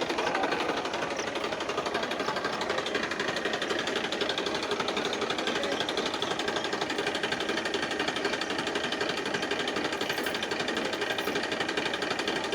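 Tractor engine running steadily under load, a fast even chugging with no let-up.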